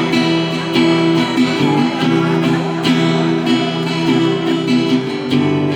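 Acoustic guitar strummed in steady, rhythmic chords, the instrumental opening of a song, with a chord change near the end.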